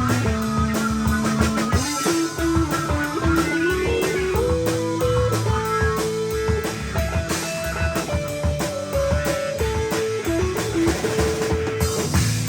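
Band playing an instrumental rock passage: a guitar lead line steps between held notes over drums and a steady low part.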